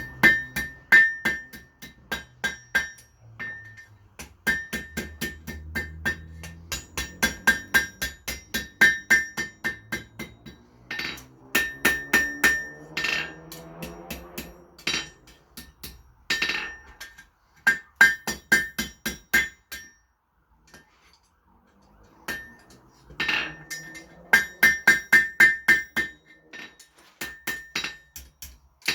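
Blacksmith's hammer striking hot mild-steel round bar on an anvil, in runs of quick blows at about three to four a second, each with a clear high ring from the anvil. The blows stop for about two seconds roughly two-thirds of the way through, then start again.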